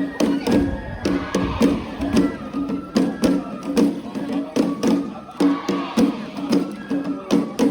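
Japanese festival music: drums struck in a fast, even rhythm, with crowd voices and shouts over them.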